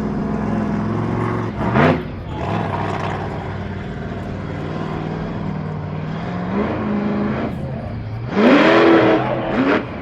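A motorsport vehicle's engine idling steadily, blipped up in revs about two seconds in and again briefly around seven seconds, then revved hardest for over a second near the end.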